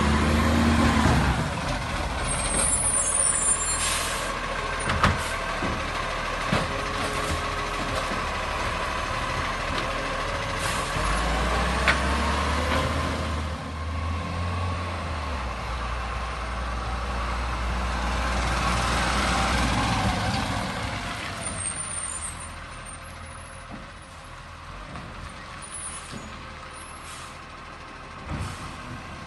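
Garbage truck working: its diesel engine runs, rising in revs about 11 seconds in, with hisses of air and a few sharp knocks. It grows quieter about two thirds of the way through.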